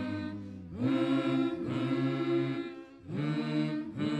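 Background music of low chanted choral voices, singing held notes in phrases a second or two long over a deep drone.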